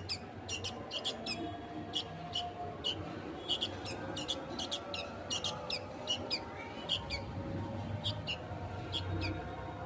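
Baby bulbul chick giving short, sharp begging calls, about two or three a second at irregular spacing, as it is fed.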